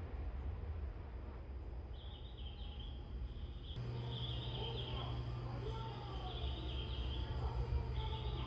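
Small birds chirping in repeated short phrases, beginning about two seconds in, over a steady low hum that grows louder about four seconds in.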